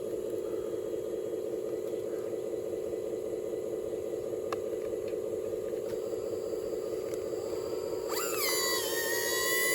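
Electric motors and gearing of radio-controlled construction models: a steady low hum, then about eight seconds in a higher motor whine starts, swoops up and settles to a steady pitch.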